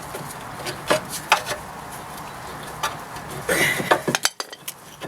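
Metal tools clinking and knocking on a car's rear brake caliper as it is worked free: two sharp clicks about a second in, then a short cluster of clatter near the end, over a steady hiss.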